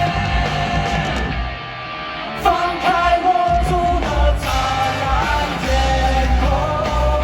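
Rock band playing live at full volume. About a second in, the sound thins out briefly, then the full band crashes back in about two and a half seconds in.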